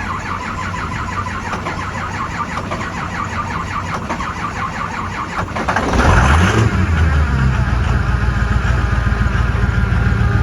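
Ford 6.0L Power Stroke V8 diesel cranking rhythmically for about six seconds, then firing, revving up briefly and settling into a steady idle. It starts on boosted batteries with a newly fitted fuel injection control module (FICM), curing the no-start.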